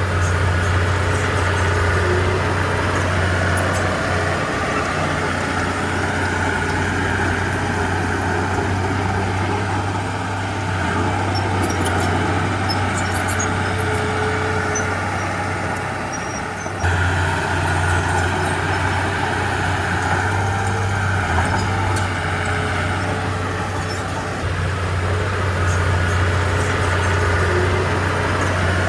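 Heavy diesel engine of earthmoving machinery running steadily, its low drone easing off and building up again several times as the load changes, with a sudden jump in loudness a little past halfway.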